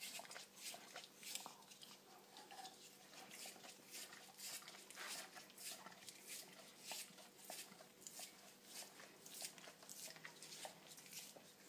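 German shepherd licking a frozen dog ice-cream treat in its pot: faint, wet licks repeating irregularly about twice a second.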